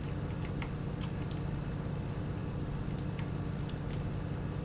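Kubota riding mower's engine running steadily, with scattered sharp ticks over the drone.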